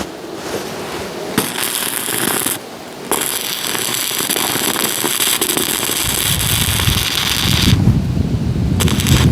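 Electric arc welding: a steady crackle and sizzle in runs, with a short break about a third of the way in and another near the end.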